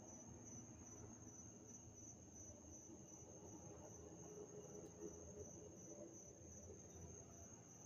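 Faint, steady high-pitched insect trill, evenly pulsing, over a low hum.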